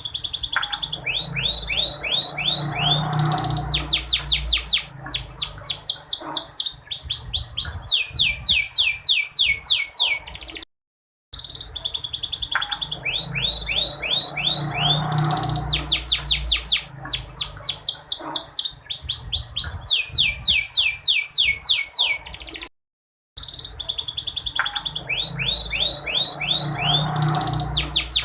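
Canary trilling in fast runs of high, falling whistled notes, several a second. The passage repeats about every twelve seconds, broken by a brief silence just before each repeat. It is offered as a female canary's call, played to stir male canaries into singing.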